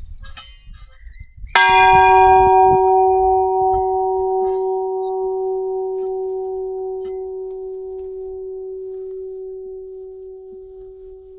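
A church bell struck once about a second and a half in, then ringing on with a long, slowly fading hum.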